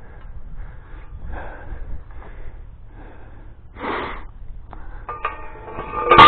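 A person breathing hard, then a steel T-post being struck with a post driver near the end: a sharp clang of metal on metal with several ringing tones after it. The post is going into soft ground.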